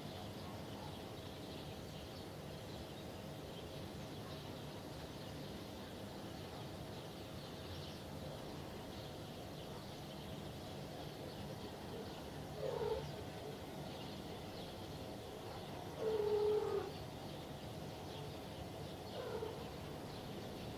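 Faint steady outdoor background noise with three short calls from a bird in the second half, each dropping in pitch.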